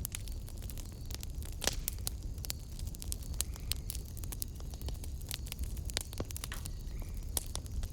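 Wood fire in a fireplace crackling: irregular sharp pops and snaps over a steady low rumble of the flames, with a louder pop about two seconds in and another near the end.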